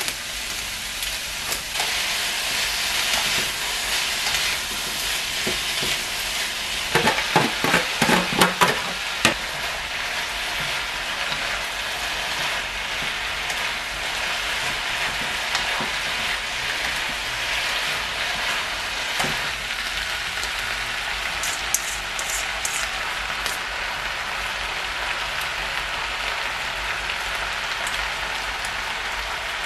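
Stir-fry sizzling steadily in a hot nonstick wok as the vegetables are tossed, with a cluster of sharp clatters from the utensil knocking against the pan about seven to nine seconds in.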